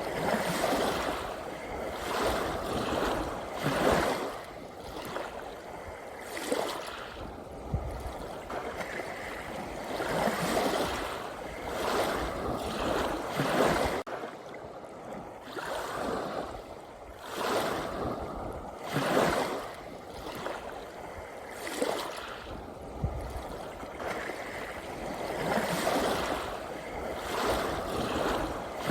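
Ocean waves washing in and breaking, the water noise swelling and falling back every few seconds.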